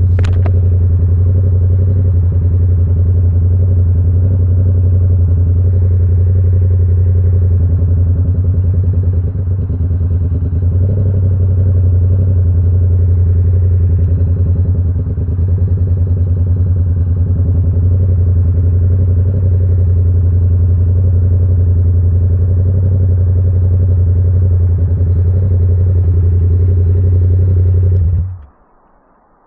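Yamaha R7's 689 cc parallel-twin engine idling steadily through an SC Project CR-T exhaust, then switched off near the end, the sound cutting out abruptly. There is a short sharp click right at the start.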